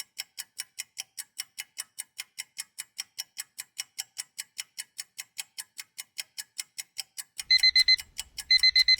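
Countdown-timer sound effect: a clock ticking steadily about five times a second, then, about seven and a half seconds in, an alarm clock starts beeping in short bursts of rapid beeps about a second apart, signalling that time is up.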